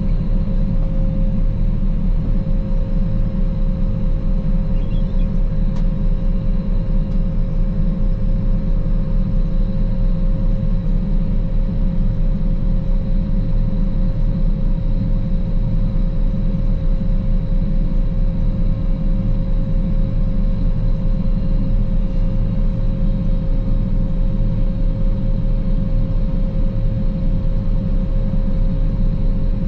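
Claas Lexion 480 combine harvester running steadily at work harvesting rapeseed: an even low rumble with a steady whine over it.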